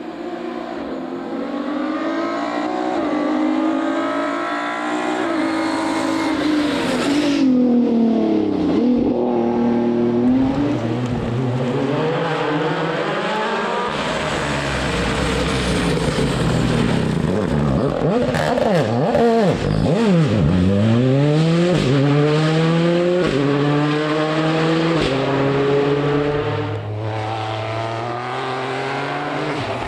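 Rally cars at full throttle on a stage, engines climbing through the gears in steps. The pitch drops sharply as a car passes close by, about a quarter of the way in and again past the middle.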